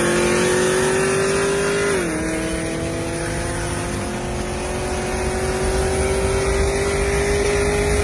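A car's engine accelerating at full throttle, its pitch climbing steadily, dropping once about two seconds in at an upshift, then climbing again.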